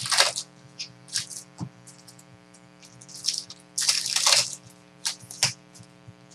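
Trading card packs and cards being handled, making short bursts of crinkling and rustling, the longest a little under halfway through, over a steady low hum.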